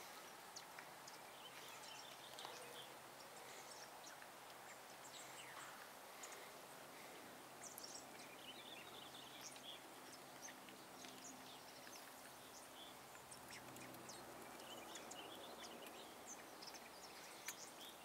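Quiet outdoor ambience with scattered faint, short bird chirps and small ticks.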